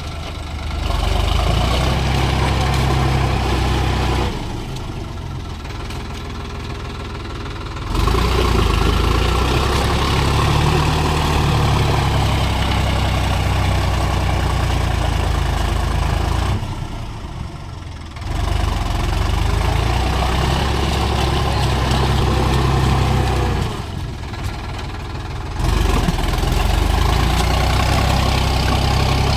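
Sonalika tractor's diesel engine running hard in mud, its pitch rising and falling. Three times it drops back to a quieter, duller sound for a couple of seconds before picking up again.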